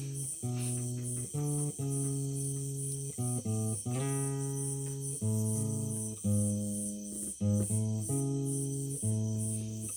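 Instrumental passage of a song played on guitar: strummed and plucked chords over changing bass notes, with no singing, and a steady high pulse keeping time about three times a second.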